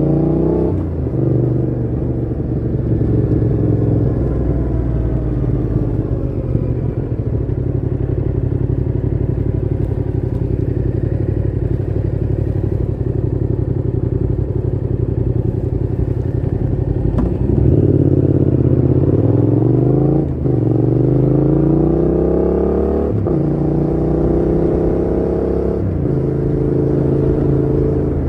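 Yamaha MT-07's 689 cc parallel-twin through a Mivv GP Pro full exhaust with the dB killer fitted, under way. The revs climb and drop at an upshift about a second in, then hold at a steady cruise, then climb and drop at three more upshifts in quick succession in the last ten seconds.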